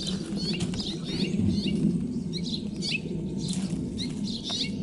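Wild birds chirping, many short, quick high notes from several birds overlapping, with a low rustling underneath.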